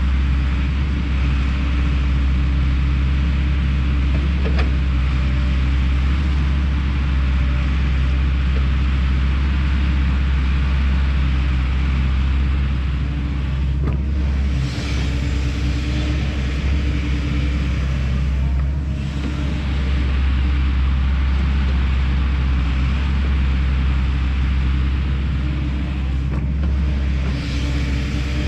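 Kobelco SK210 excavator's diesel engine running steadily, with a constant low hum, as the machine works.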